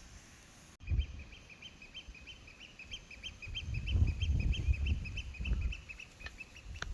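A bird calling in a steady, rapid series of short high notes, about four a second, over a low rumble.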